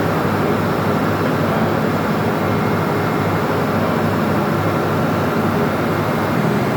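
Steady drone of ship's engine-room machinery, a low hum with a few faint steady tones above it.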